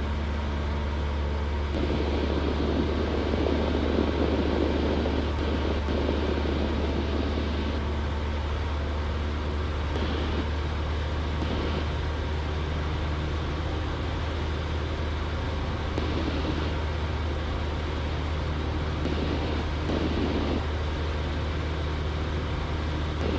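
Cessna 172's piston engine and propeller making a steady, unchanging low drone, heard from inside the cabin.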